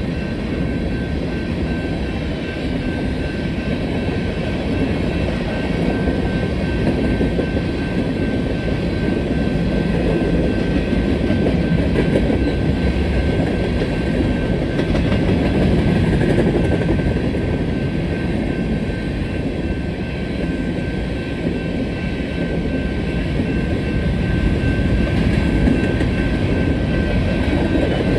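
Union Pacific unit grain train's covered hopper cars rolling past at speed: a steady, loud rumble of steel wheels on rail with some clicking, and a faint steady high tone over it.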